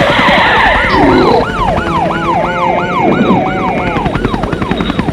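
Emergency-vehicle siren on a fast yelp, each quick rise and fall repeating about two and a half times a second, over a low rumble. A hissing rush sounds in the first second and a half.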